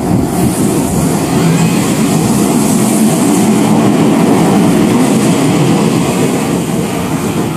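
A red Meitetsu electric train running past the station platform at speed, its wheels and motors making a loud, steady rush that carries on as it pulls away.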